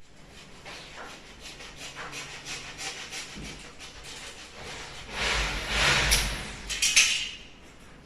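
Repeated scraping and rubbing strokes, getting louder about five seconds in and easing off near the end.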